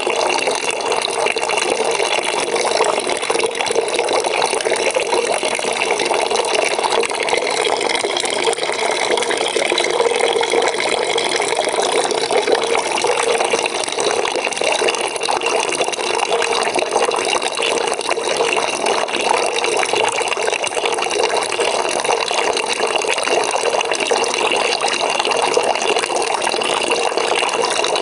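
Water running from a tap into a bucket, a steady splashing rush without a break.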